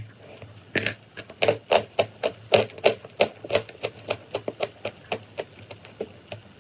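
Chalk or clay crunching in a quick run of sharp crackles, about three a second, fading out near the end.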